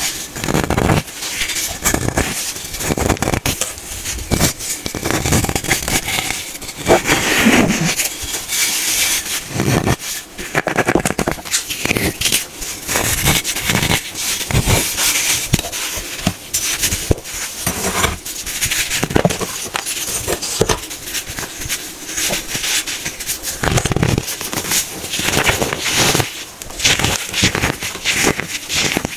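Hardened baking soda being crushed by hand, with dense, irregular crunching and crackling.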